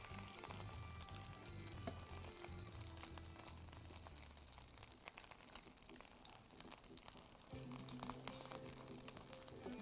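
Stuffed pigeons sizzling as they brown in oil in a frying pan on lowered heat, with scattered clicks of tongs against the birds and the pan. Soft background music underneath.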